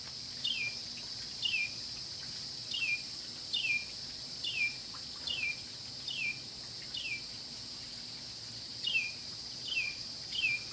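A bird repeating a short downslurred chirp about once a second, pausing briefly about two-thirds of the way through, over a steady high-pitched drone of insects.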